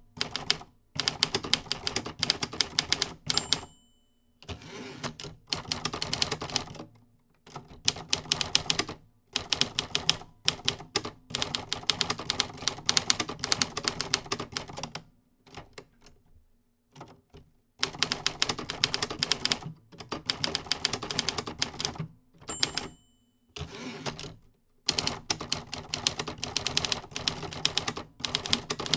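Typewriter typing in fast runs of key strikes, broken by short pauses. Twice, about three seconds in and again near the 23-second mark, a short bell ding is followed by a softer sliding sound, like the carriage being returned.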